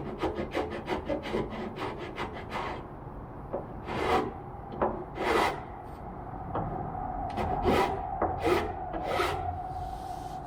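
Bastard hand file stroking across wood: a quick run of short strokes for the first few seconds, then slower, separate strokes.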